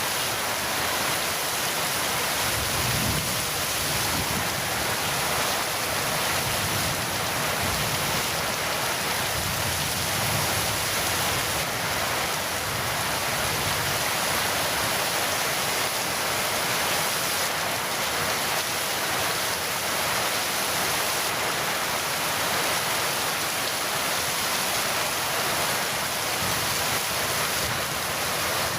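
Heavy rain falling steadily, an even unbroken hiss of a rainstorm.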